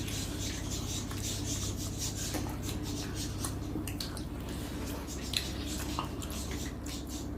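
Small scrapes and clinks of food and utensils against dinner plates as people eat, over a steady low background hum.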